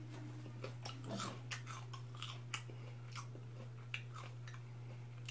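A person chewing a mouthful of crispy fried chicken close to the microphone: a string of short, irregular crackles and crunches, over a steady low hum.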